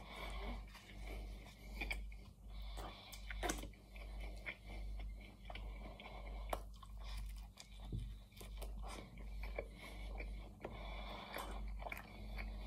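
Close-up chewing of a mouthful of roast chicken pie with flaky pastry, in a steady rhythm of about one chew a second, with sharp clicks of the mouth and pastry now and then.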